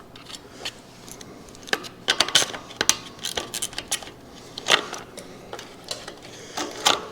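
Scattered metallic clicks and clinks of hand tools, a 10mm wrench and pliers, working the mounting nuts off a go-kart engine's carburetor.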